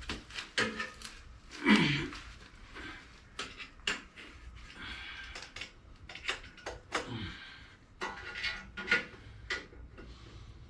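Metal hand tools and small engine parts clinking and clattering, a string of short sharp clicks and knocks, during teardown of a Briggs & Stratton lawn mower engine.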